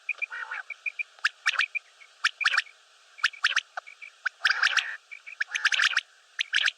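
Common quail calling: short, sharp whistled notes in quick groups of two or three, repeated about once a second, with a run of faint rapid pips near the start and a few rougher, lower calls mixed in.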